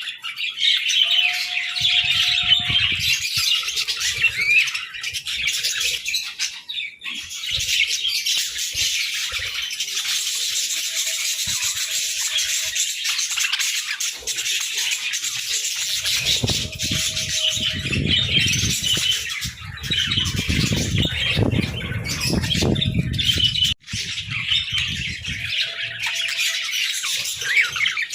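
A flock of budgerigars chattering, with chirps and squawks throughout. A low rumble joins in for several seconds in the second half.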